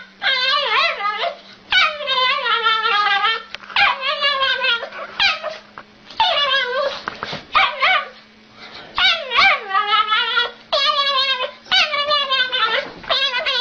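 A dog whining and yowling in a series of long, warbling calls with short pauses between them, over a faint steady hum.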